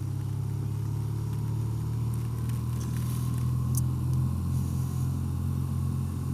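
2024 BMW R12 motorcycle's boxer-twin engine running steadily under way, with a few faint ticks over the drone.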